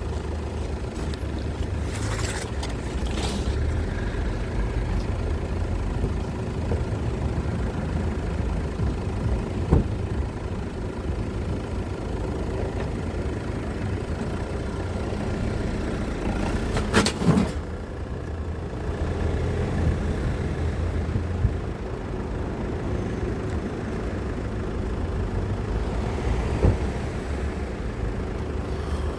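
Car engine running steadily, a low rumble, with three short knocks or clatters spread through it.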